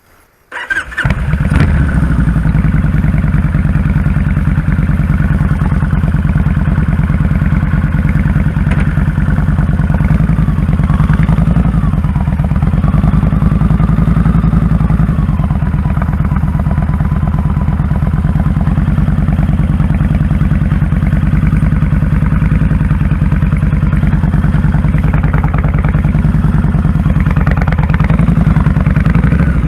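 2001 Kawasaki Drifter 1500's V-twin engine starting about a second in, then running at a steady, even idle.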